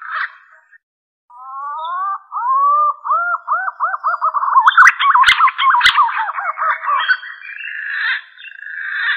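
Green pigeon (punai) call used as a hunting lure: a string of whistled notes begins about a second in and quickens into rapid wavering notes, then trails off into a rougher warble. Two sharp clicks fall in the middle of the call.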